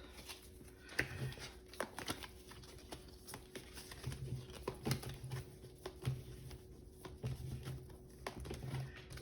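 Tarot cards being handled and pulled from the deck: light, irregular card taps and flicks.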